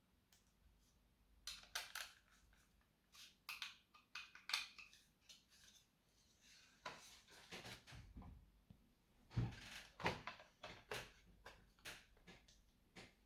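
Scattered clicks and light taps of small plastic and metal laptop parts being handled during disassembly, with one heavier thump about nine seconds in.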